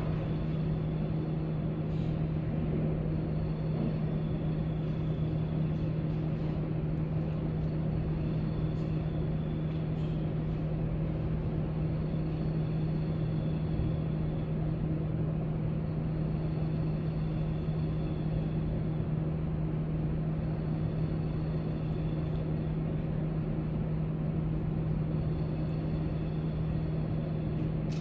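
Library room tone: a steady low hum, with a few faint light clicks here and there.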